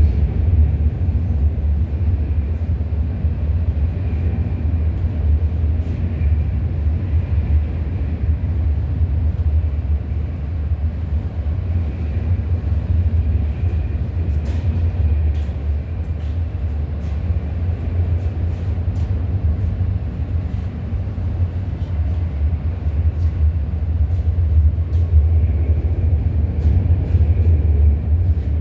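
Freight train rolling past: a steady low rumble of cars on the track, with scattered sharp clicks from the wheels in the second half.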